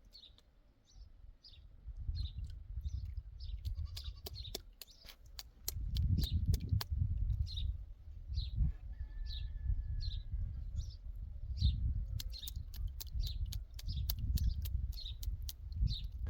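Sheep bleating in a flock. A small bird gives a short high chirp over and over, about twice a second, over a low rumble and scattered clicks.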